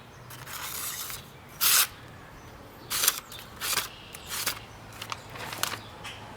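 A hand-forged railroad-spike knife slicing paper in about five short rasping strokes, its significantly dulled edge still cutting but tearing the paper a little.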